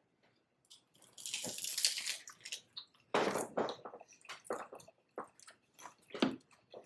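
Close-miked eating of cheeseburger egg rolls: irregular crunches, bites and wet chewing, with short gaps between them.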